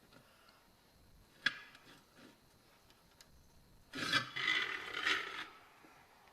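Metal rubbing and scraping as the BMW E30 scissor-style emergency jack's main screw thread and its bearings are worked free of the jack body: a sharp click about a second and a half in, then a rough scrape lasting about a second and a half near the end.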